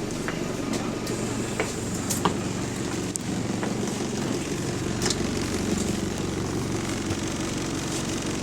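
Bus diesel engine running steadily, heard from inside the passenger cabin, with scattered sharp clicks and rattles from the bodywork.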